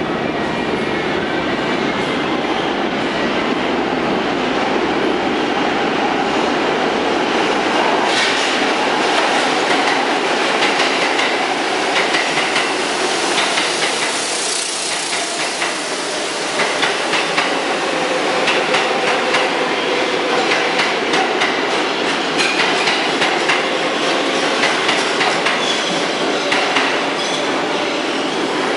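New York City Subway R142A train running along the track: a steady loud rumble of steel wheels on rail, with a rapid run of clicks over the rail joints from about a third of the way in and faint wheel squeal now and then.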